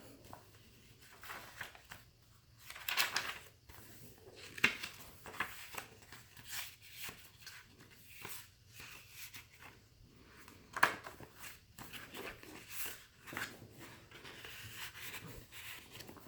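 Paper pages of a handmade junk journal being handled, rustling and crinkling in short irregular bursts, with two sharp clicks, one a little under five seconds in and one about eleven seconds in.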